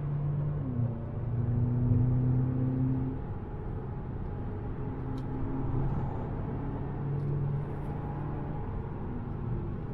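Inside the cabin of a VW Golf GTI TCR, its turbocharged 2.0-litre four-cylinder engine accelerates hard. It shifts up once from fourth to fifth gear, and the engine note then climbs slowly with road speed over steady tyre and wind noise.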